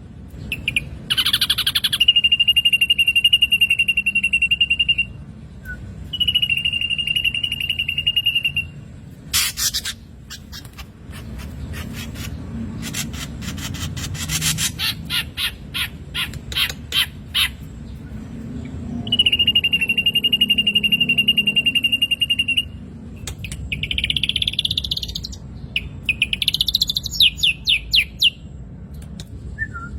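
Black drongo calling: three long, steady high whistles of about three seconds each, a fast run of sharp clicks in the middle, and quick chirping notes near the end.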